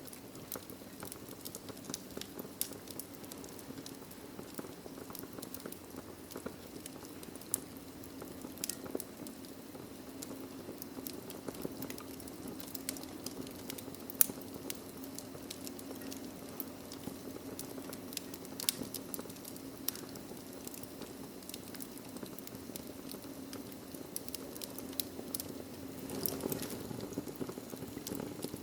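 Wood fire burning in a fireplace, crackling with irregular sharp pops over a steady low rumble of the flames; one pop about halfway through stands out louder than the rest.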